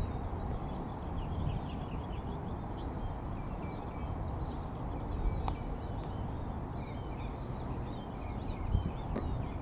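A hidden sparrow giving a very short, very high, cricket-like note about once a second, with scattered softer bird chirps beneath. One sharp click about halfway through.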